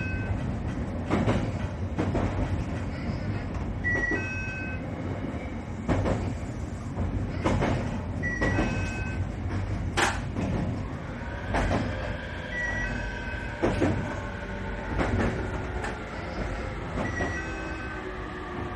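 Train running on the rails, its wheels clacking over rail joints every second or two, then slowing for a station stop with a falling whine from about halfway through. A short three-note tone repeats about every four seconds.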